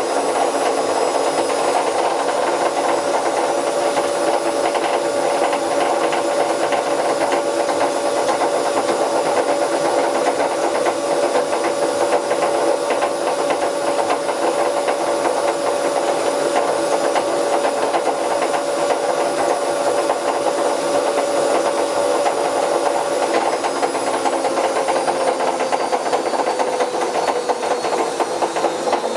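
Bauknecht WA Plus 844 washing machine drum spinning, a steady whine over a harsh rasping rattle from its damaged drum bearing. About 23 seconds in, the whine's pitch falls slightly.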